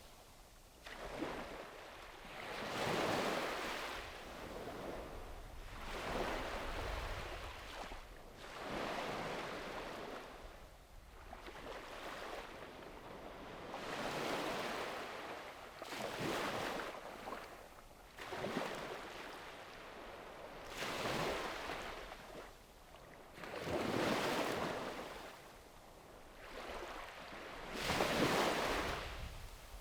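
Small sea waves breaking and washing on a beach, one soft surge every two to three seconds, rising and falling in a steady rhythm.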